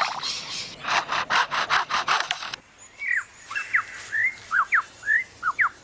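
Superb lyrebird mimicking a chainsaw: a rapid run of rasping strokes that stops about two and a half seconds in. It is followed by a string of short, mostly downward-sliding whistled notes.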